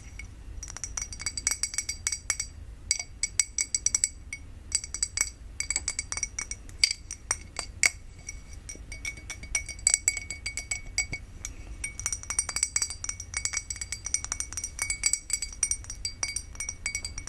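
A drinking glass tapped rapidly and lightly, each tap ringing briefly with a high glassy tone, in runs broken by short pauses.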